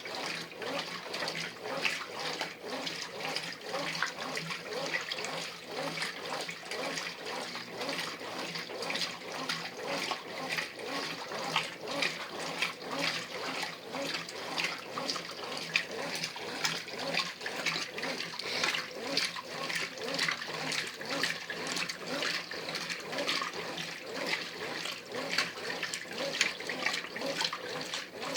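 Brastemp Ative 11 kg washing machine agitating its wash load: water sloshing and splashing in the drum without a break, with many quick irregular splashes.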